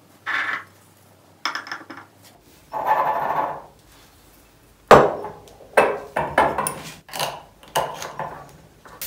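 Kitchen jars and containers being handled and set down on a shelf or counter: a string of sharp knocks and clinks, with a short rustling rush about three seconds in and the loudest knock about five seconds in.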